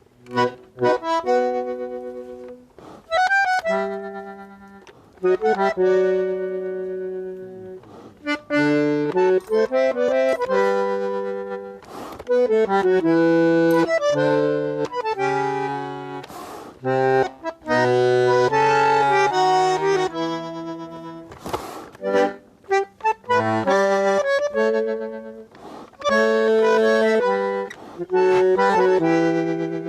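Accordion playing a tune: chords and bass notes, some short and some held, phrases broken by brief pauses.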